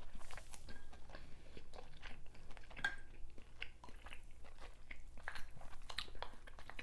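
Close-up chewing of a person eating a seafood boil: a run of small, irregular mouth clicks and smacks.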